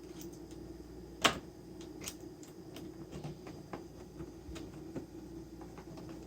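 Light scattered clicks and taps of metal parts and tools being handled, with one sharp clink about a second in, over a steady low hum.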